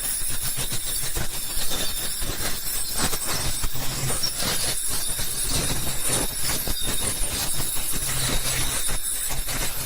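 A steady mechanical whirring hiss with a low hum underneath that pulses on and off.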